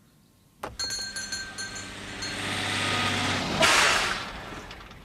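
Fire engine pulling up: its engine running, then a loud burst of hiss about three and a half seconds in that fades away.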